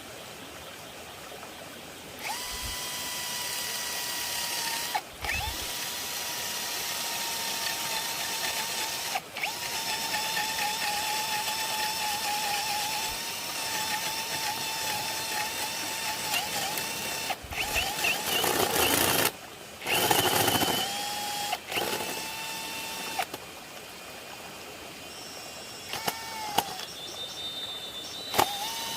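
Electric drill running in long stretches, a steady motor whine that stops briefly every few seconds and starts again. Near the middle it runs louder and rougher.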